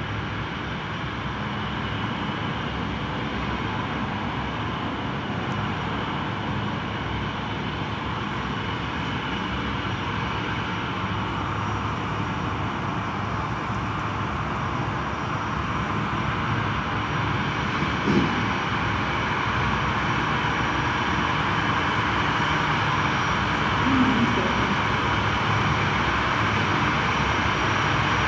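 Boeing 737-8 jet engines running with a steady rushing noise that grows gradually louder. Two brief faint sounds come about 18 and 24 seconds in.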